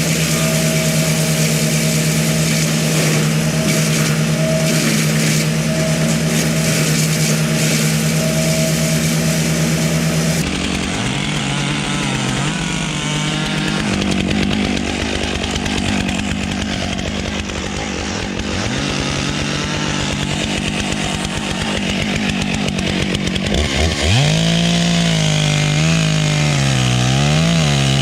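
Chainsaw engine running at high revs and steady at first. Partway through, the sound changes abruptly and the engine pitch repeatedly drops and climbs back as the saw bogs under load while cutting into the wood.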